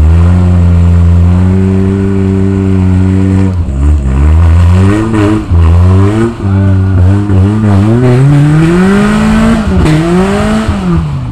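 Suzuki Samurai's engine under load on a rock crawl: held at a steady pitch for a few seconds, then revving up and down in repeated throttle blips, with a long slow rise in revs before it drops back near the end.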